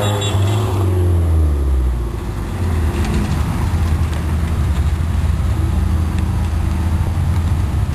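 Car engines as a line of cars drives past. In the first two seconds the nearest car's engine note falls in pitch as it goes by, then a steady low engine drone follows from the next cars.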